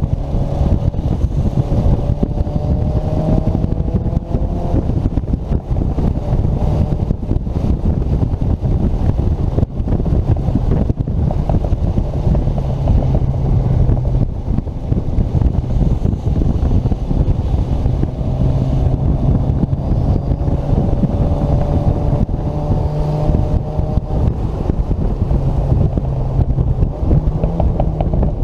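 Turbocharged Mazda Miata NC's four-cylinder engine running hard at speed on a wet track, its pitch climbing through long pulls twice, over a heavy, steady rumble of road and wind noise.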